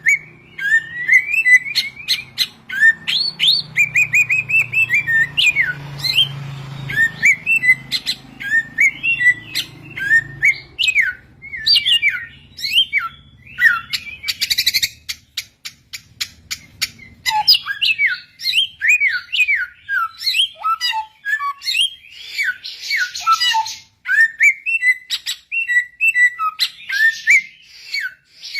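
Samyong, an Indonesian endemic songbird, singing a fast, varied song of short chirped and whistled notes, broken by harsh buzzy rasps around the middle and near the end.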